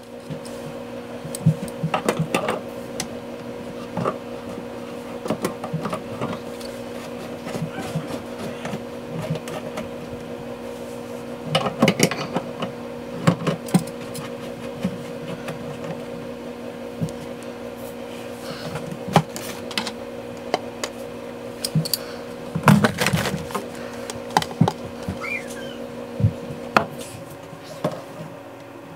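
Scattered clicks and knocks of plastic sink drain pipes and slip nuts being handled and loosened, with louder clatters about twelve and twenty-three seconds in. A steady hum runs underneath.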